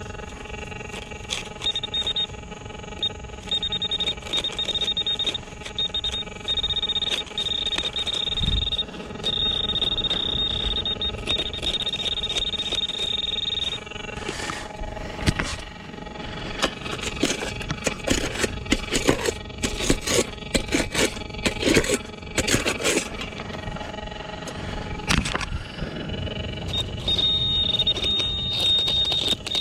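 Metal detector giving a high, steady tone that cuts in and out as the coil sweeps over a buried metal pipe. In the middle the tone stops and a run of scrapes and knocks takes over, then the tone returns near the end.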